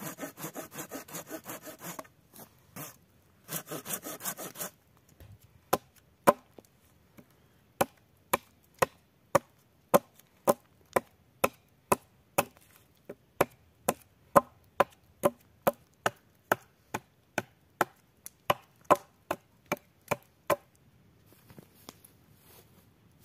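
A hand saw cutting wood in quick, even strokes for a few seconds, with a short pause. Then comes a long series of sharp strikes on wood, about two a second, which stops near the end.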